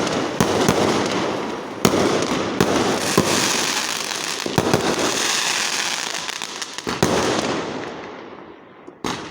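Fireworks crackling: a dense stream of rapid pops and crackles with a few louder cracks, dying away over the last couple of seconds.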